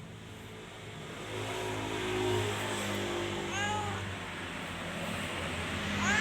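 Domestic cat meowing as it begs for food: one short meow about three and a half seconds in and another beginning near the end, over a steady low hum.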